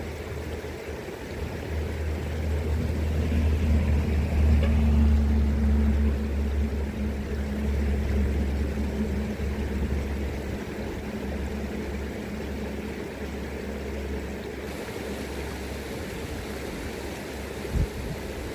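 River current rushing steadily. A low rumble with a faint hum swells a couple of seconds in and fades away over about ten seconds, and a brief low knock comes near the end.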